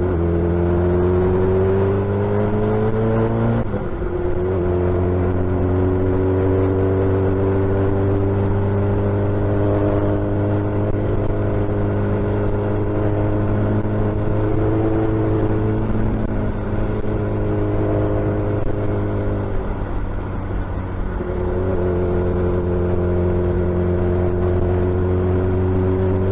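Suzuki Hayabusa's inline-four engine with a loud exhaust, ridden on the road: the engine note rises, drops at an upshift about four seconds in, climbs slowly for a long stretch, dips about twenty seconds in and rises again.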